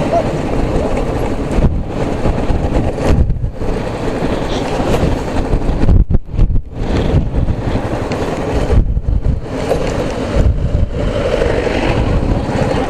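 Motorcycle engine running while riding, with wind buffeting the microphone in gusts.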